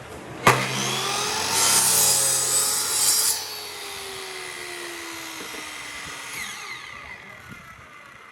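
Power saw switched on and cutting into wood for a couple of seconds, then switched off, its blade winding down with a falling whine that fades out.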